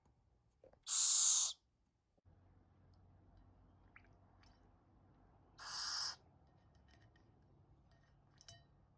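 A young owl hissing twice, each a harsh breathy hiss of about half a second: one about a second in and another around six seconds in. A few faint ticks fall between them.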